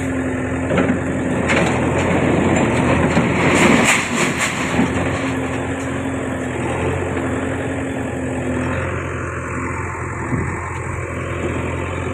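JCB 3DX backhoe loader's diesel engine running steadily, with a louder, noisier stretch about three to four and a half seconds in.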